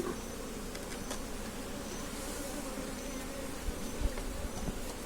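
A colony of Africanized honey bees buzzing steadily around an open hive, with a few faint low thumps.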